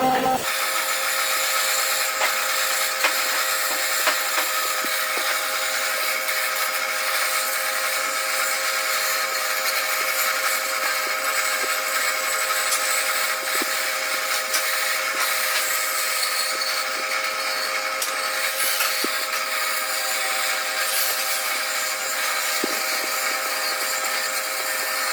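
A power tool motor running steadily on wood, with an even high whine.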